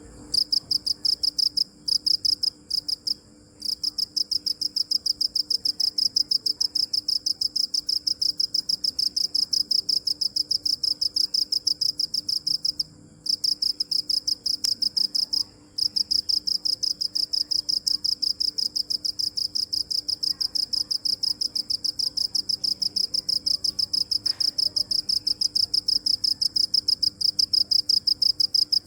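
Cricket chirping: a rapid, even train of high-pitched chirps on one pitch, broken by short pauses a few times near the start and twice near the middle.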